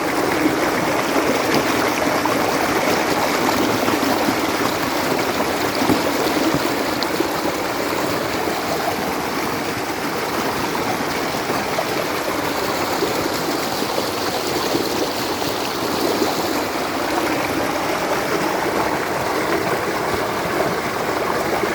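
Stream water flowing steadily, a continuous even rush of moving water.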